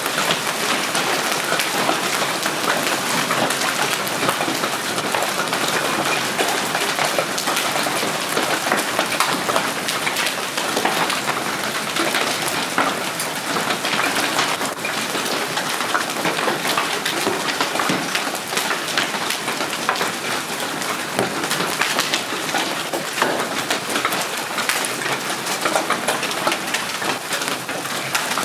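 Golf-ball-sized hail pelting down in a dense, continuous clatter of impacts that never lets up.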